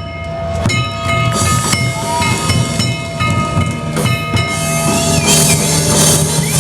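Festival music with sharp strikes that leave ringing metallic tones hanging for seconds, over a pulsing low beat and crowd noise.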